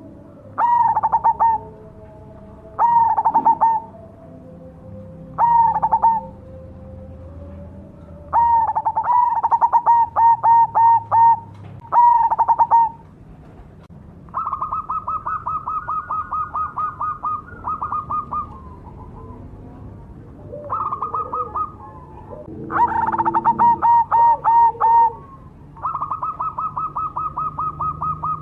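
Perkutut cemani (a black zebra dove) cooing in loud phrases of quick, ringing notes. The phrases are a few seconds apart, and the later ones are longer rolling runs of notes.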